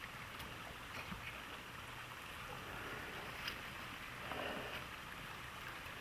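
Steady rush of running water from a snowmelt stream, with a few faint splashing ticks.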